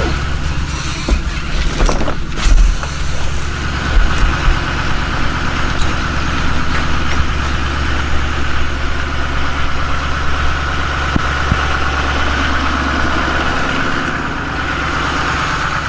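An engine idling steadily, with a few sharp knocks and clunks in the first few seconds.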